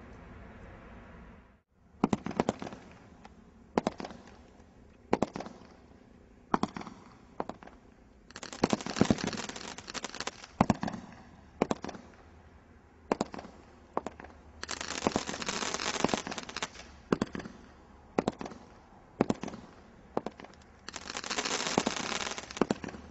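Fireworks going off: a string of sharp bangs about every second and a half, with three longer stretches of dense crackling between them.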